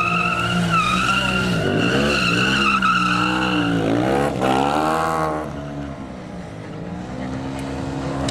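Motorcycle doing a burnout: the rear tyre squeals in a steady high tone while the engine revs up and down. About five seconds in the squeal stops and the engine drops to lower, quieter revving.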